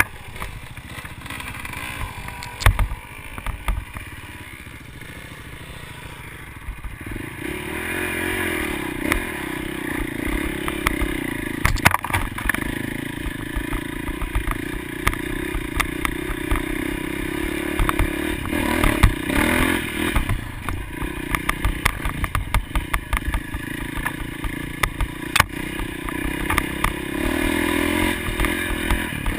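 Motocross motorcycle engine running. It comes up louder about seven seconds in and then holds a steady note, with scattered knocks and clatter.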